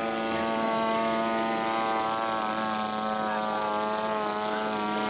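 Engine and propeller of a radio-controlled scale model airplane in flight, a steady droning note whose pitch wavers slightly midway.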